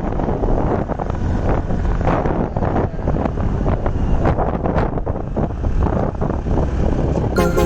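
Wind buffeting a microphone, a dense low rumble that swells and dips, as on a moving motorcycle. Music comes in just before the end.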